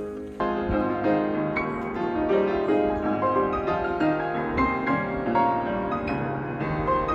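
Piano music, a steady flow of notes after a brief pause just at the start.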